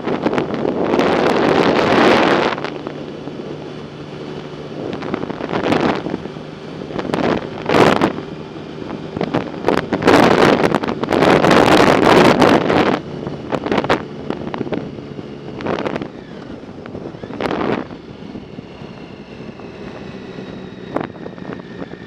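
Wind buffeting the microphone of a moving bike in repeated gusts, the loudest about two to three seconds in and again from about ten to thirteen seconds, over a steady low hum.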